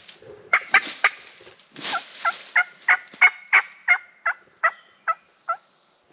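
Turkey calling: a quick run of three short notes, then a series of about eleven evenly spaced notes, roughly three a second, slowing and fading near the end.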